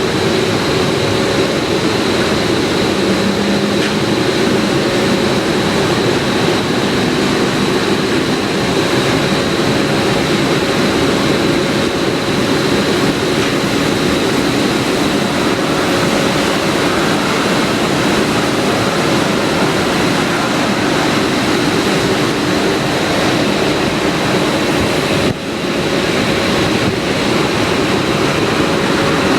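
Automatic car wash equipment running: a loud, steady rush of air and water with a constant high whine, dipping briefly near the end.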